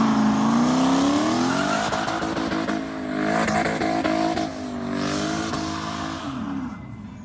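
Vehicle engine revving hard during a burnout, its pitch dropping and climbing again several times over the hiss of spinning, squealing tyres, then falling away near the end.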